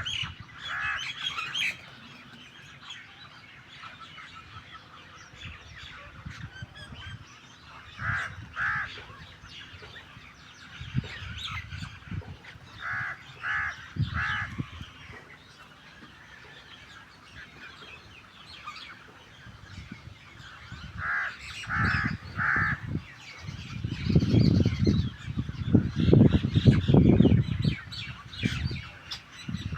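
Birds calling: harsh, grating calls in groups of two or three, coming every few seconds, with some softer chatter between. Near the end a louder low rumbling noise comes in for a few seconds.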